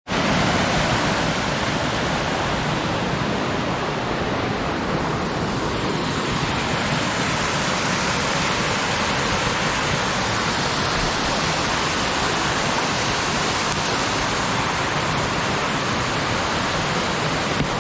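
Mountain stream water rushing over rocks, a steady loud wash.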